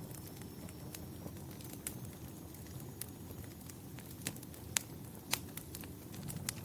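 Wood fire crackling in a fireplace: a steady low rumble of the flames with scattered sharp pops, and two louder snaps about two-thirds of the way through.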